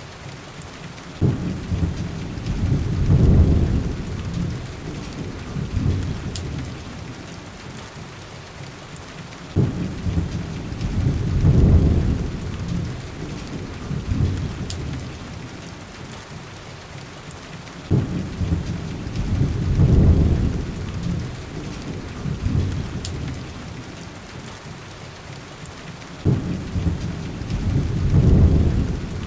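Heavy rain falling steadily, with low rumbles of thunder rolling in four times, each starting suddenly and swelling over a couple of seconds before dying away.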